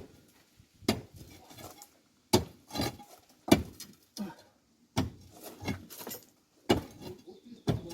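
Hard knocks about a second apart, some seven blows, as part of a wall is struck out to widen the opening for a wood stove's flue pipe.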